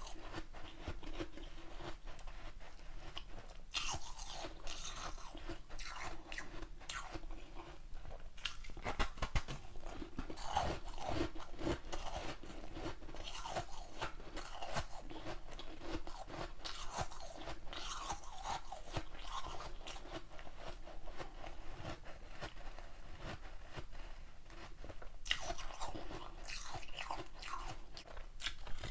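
A person biting and chewing hard ice close to the microphone: a continuous run of sharp crunches and crackles.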